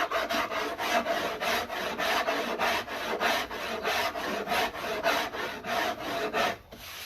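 Hand rasp scraping along a wooden bass neck in quick back-and-forth strokes, about four a second, while the neck profile is carved. The strokes stop shortly before the end.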